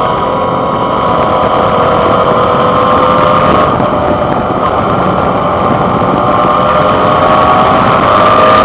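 Suzuki V-Strom 650's 645 cc V-twin engine running under way, heard from a handlebar-mounted microphone over a steady rush of wind and road noise. The engine note sags slightly over the first few seconds, then climbs steadily toward the end.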